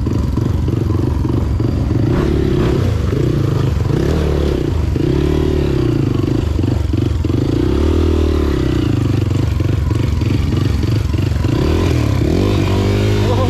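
Motorcycle engine running while being ridden, its revs rising and falling again and again as the throttle is opened and closed.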